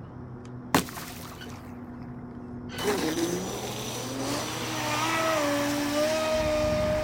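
HK Pursuit RC boat's ADS500M water-cooled electric motor starting under throttle: a sharp click just under a second in, then about three seconds in a sudden rush of noise as a whine glides up and settles at a steady pitch.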